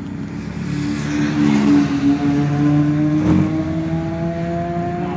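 Car engine running at a steady pace, its note slowly climbing in pitch, with a short rush of noise about three seconds in.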